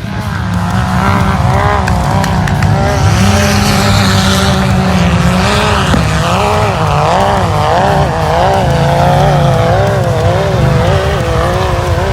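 A motor vehicle's engine running hard while its tires squeal, the squeal wavering up and down in pitch as the tires slide.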